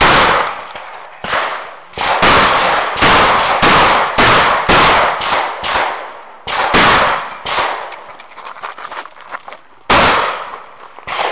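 Shotgun shots fired in quick strings, each ringing out briefly. There is one shot at the start, then a run of about six shots roughly half a second apart from about two seconds in, a pair near the middle, and a last single shot near the end.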